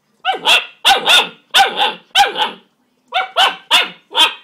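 Young Greater Swiss Mountain Dog puppy barking repeatedly, about a dozen sharp barks in two quick runs with a short pause between them. He is barking at his own reflection in his food bowl.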